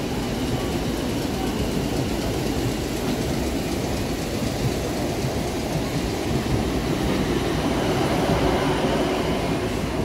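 Steady electric train noise along a station platform: a constant rumbling hum with no distinct clicks or squeals.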